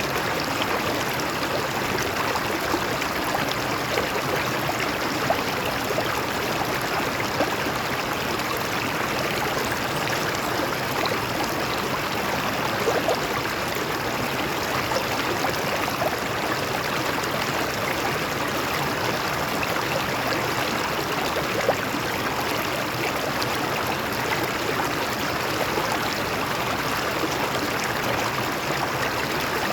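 Water flowing over rocks in a stream: a steady rushing with a few brief gurgles and splashes.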